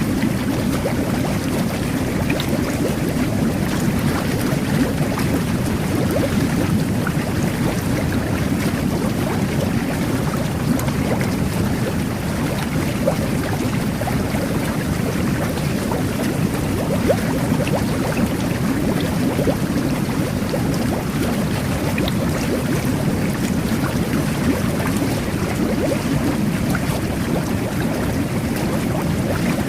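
Jet bath (jacuzzi) running: water churning and bubbling steadily from the jets.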